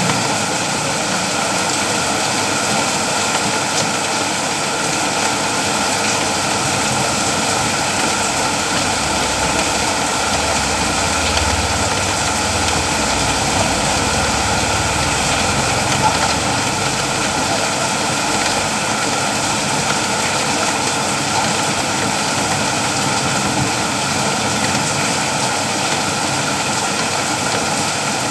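Steady, heavy afternoon rain falling, an even unbroken hiss, with a low rumble swelling briefly in the middle.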